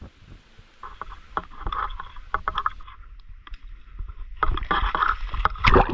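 Water splashing and sloshing as a swimmer moves into a cold stream pool, in uneven bursts with a brief lull partway through and a louder splash near the end.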